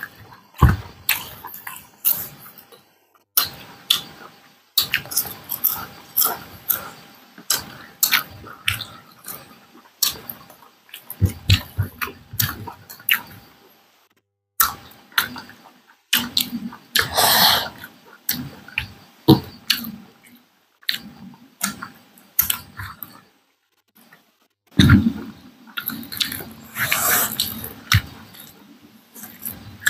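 Close-miked chewing and wet mouth smacks of two people eating rice and fried pork with their hands, an irregular run of clicks and smacks broken by a couple of brief silences.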